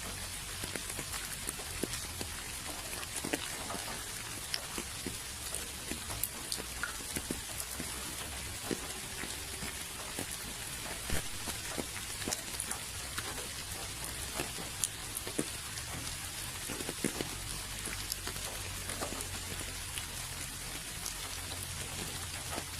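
Steady rain with individual drops pattering irregularly on a surface.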